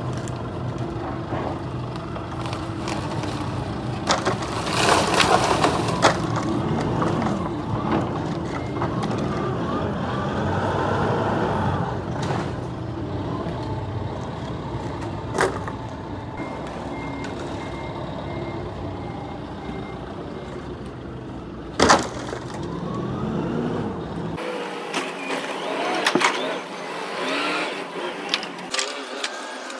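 Truck engine running steadily, with sharp knocks about 15 and 22 seconds in and a faint high intermittent beeping for a few seconds past the middle.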